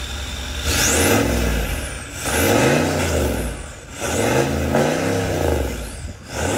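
Range Rover Vogue 4.4 diesel V8 revved three times through an aftermarket valved performance exhaust with downpipe. Each rev rises and falls back, and a fourth starts near the end.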